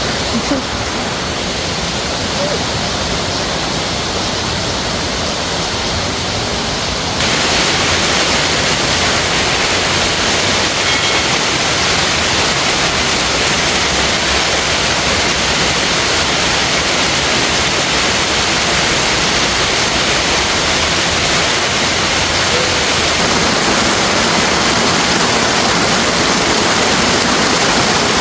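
Waterfall: a steady rush of falling water, stepping up louder about seven seconds in and then holding even.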